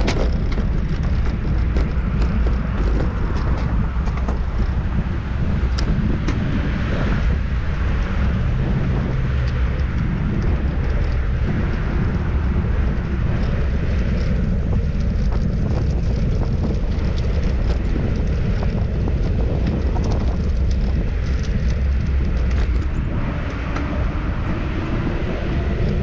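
Steady wind rumble on the microphone of a camera riding along on a bicycle, mixed with road and passing-traffic noise.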